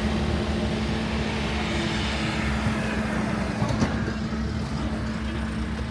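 A motor engine running steadily, with an even hum and low rumble.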